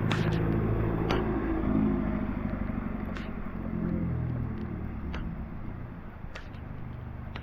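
A motor vehicle's engine passing, loudest in the first two seconds and fading away over the next few, with a few scattered sharp ticks.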